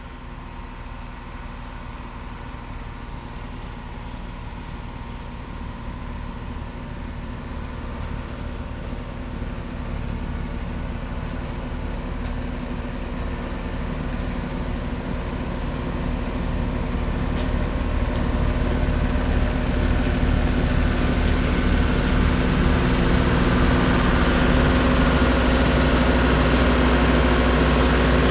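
Tractor engine running steadily and growing gradually louder as the machine comes closer.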